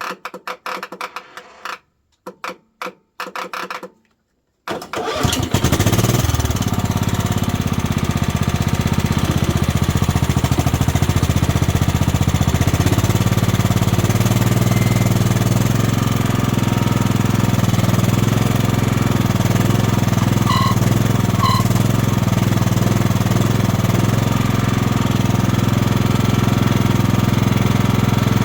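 Kohler Command 16 hp riding lawn mower engine cranked by its electric starter in several short bursts, then catching about five seconds in and running steadily: a start after the mower sat parked for a year, on a jumped battery.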